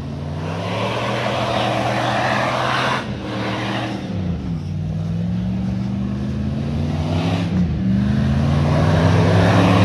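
An off-road 4x4's engine revving hard three times, its pitch climbing and dropping back in between, under a rushing noise.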